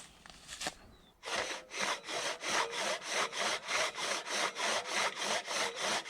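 Hand saw cutting through an old bog oak log in quick back-and-forth strokes, about three a second, starting about a second in after a few faint clicks.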